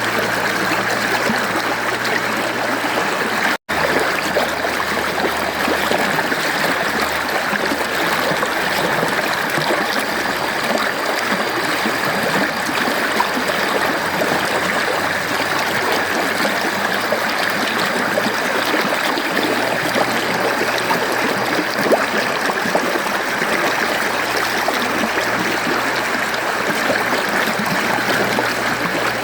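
Mountain stream flowing steadily over rocks, an even rushing and trickling of water. The sound cuts out completely for an instant about three and a half seconds in.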